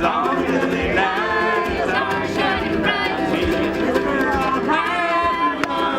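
Live folk band music: voices singing over strummed guitar with a steady rhythmic beat.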